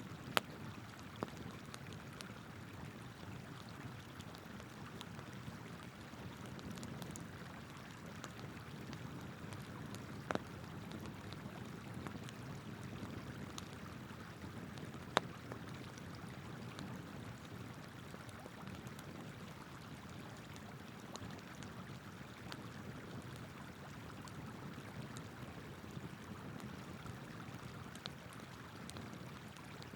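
River water flowing steadily, with a wood campfire crackling over it: a few sharp pops near the start, about ten seconds in and about fifteen seconds in, among fainter scattered ticks.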